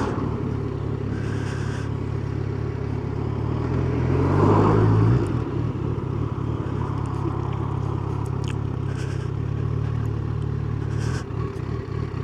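Yamaha FZ1's inline-four engine running at a steady cruise, rising in pitch and growing louder from about three and a half seconds in, then dropping back abruptly just after five seconds and running steady again.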